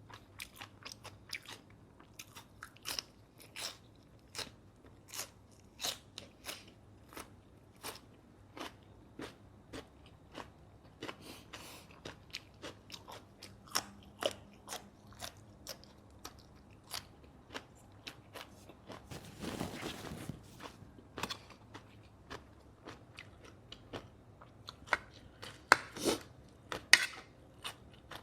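Close-miked chewing of grilled pork neck and rice: a steady run of soft wet mouth clicks and smacks, several a second. There is a short noisy rush a little past two-thirds through, and the clicks grow louder near the end.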